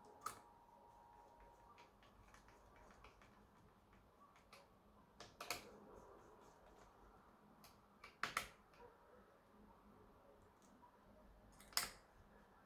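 Scattered sharp clicks and taps from small hard parts and tools being handled during a laptop repair. The loudest come at about half a second, five and a half seconds, eight seconds and near twelve seconds, over a faint hiss.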